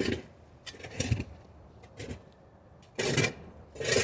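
Metal shovel scraping and scooping ash and embers out of a wood-fired brick oven in short strokes about a second apart, the last two the loudest.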